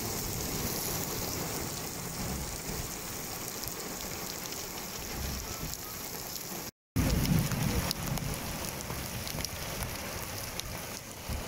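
Heavy rain falling steadily on flooded ground and puddles, a continuous hiss with fine patter of drops. The sound cuts out for a moment a little under seven seconds in, then resumes slightly louder.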